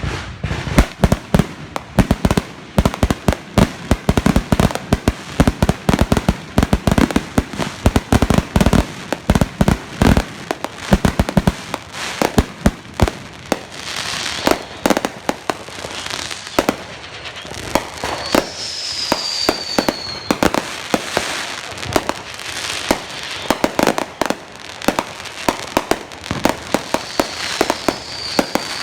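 Fireworks going off in rapid, dense succession: a continuous run of bangs and crackles, heaviest in the first dozen seconds. A falling whistle cuts through a little past the middle, and another comes near the end.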